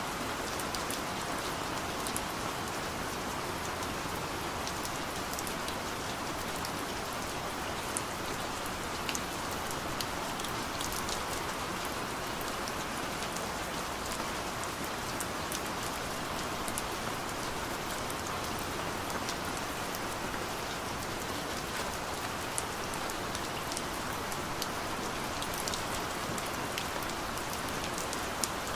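Steady rain falling on a car, heard from inside the cabin: an even hiss with many small drop ticks scattered through it.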